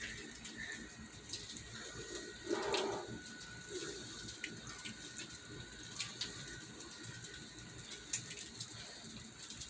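Water dripping, with many small irregular ticks and drips and a faint steady hiss.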